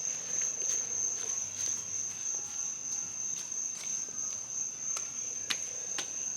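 Crickets chirping in a steady high-pitched chorus, with a few sharp clicks scattered through it.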